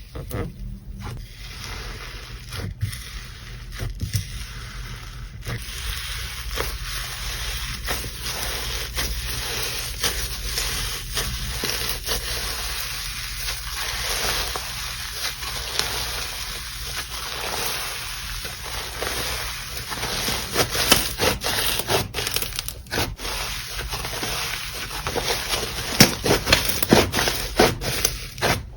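Slime being squished and stretched by hand, making continuous wet squelching with many small sharp pops and clicks that grow louder near the end.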